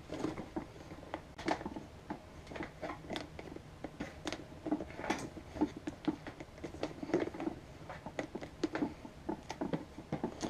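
Irregular light clicks, taps and scrapes of plastic vacuum cleaner parts being handled and picked clean by hand.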